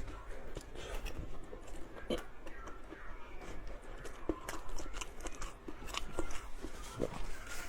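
Close-miked chewing and biting of food, with scattered small clicks and light crunches.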